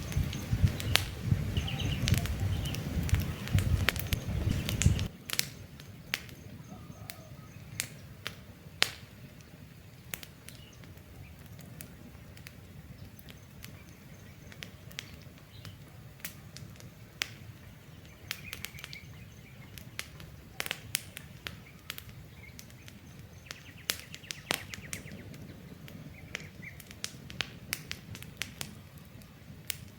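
Campfire crackling, with irregular sharp pops and snaps from burning wood and faint bird chirps behind it. For the first five seconds a louder low rumble sits under the crackling, then cuts off suddenly.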